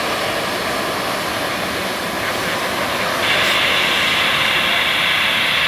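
Jet airliner engines running with a steady rushing noise. About three seconds in, a higher hiss joins suddenly and the sound grows louder.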